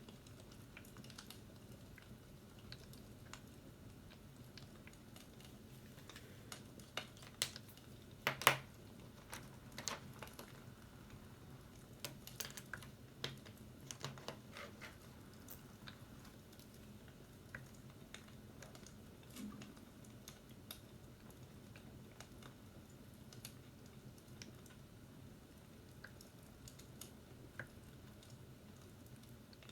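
Stylus tapping and writing on an iPad screen: irregular light taps and clicks, the loudest about eight and a half seconds in, over a low steady hum.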